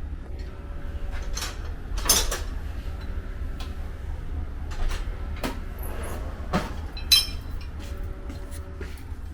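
A few irregular metallic knocks and clinks of bodywork tools on a car's steel panel, the loudest about two seconds in and again near seven seconds, over a steady low hum.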